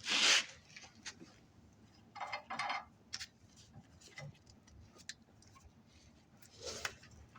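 Hand-tool and parts handling on the truck's steering: a few short scraping or rattling noises, the loudest right at the start and a pair about two seconds in, with light clicks and taps between.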